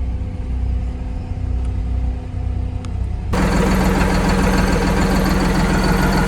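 Vehicle engine running steadily with a low rumble; about three seconds in the sound cuts abruptly to a louder engine running at a steady idle.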